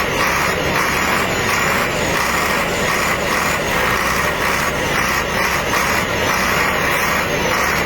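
Wheel loader's diesel engine running steadily, with an even pulsing of about three beats a second.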